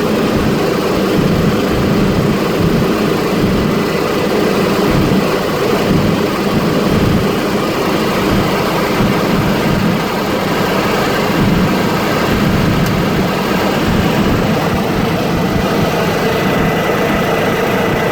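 Helicopter engine and rotor running steadily: a loud, even drone with a pulsing low throb and a faint high whine.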